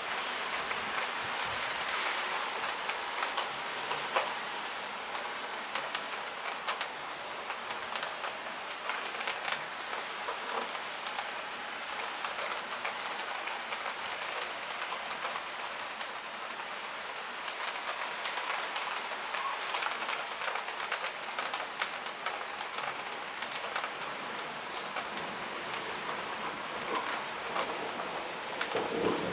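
Steady rain falling, with many sharp ticks of single drops scattered through it.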